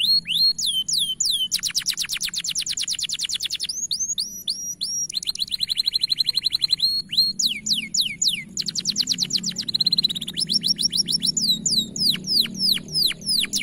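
Domestic canary singing a long, unbroken song of repeated phrases: runs of quick falling notes, very fast rattling trills, and a steady held roll about halfway through.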